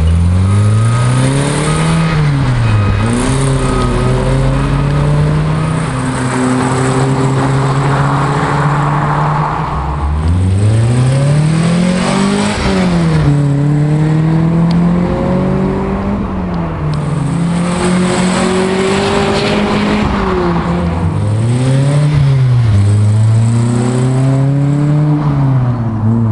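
Mitsubishi Eclipse engine running through a stainless-steel aftermarket exhaust, revved several times and dropping back to a steady idle between the revs; the biggest rev climbs about halfway through.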